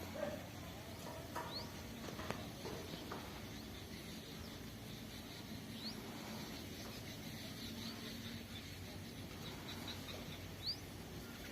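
Birds giving short rising chirps every few seconds, with a quicker run of small chirps a little past the middle, over a faint steady outdoor background and a few soft knocks near the start.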